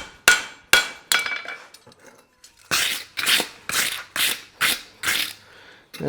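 Three sharp, ringing hammer blows on the horseshoe at the anvil, flattening the steel; then, after a short pause, six duller, rougher strokes at about two a second.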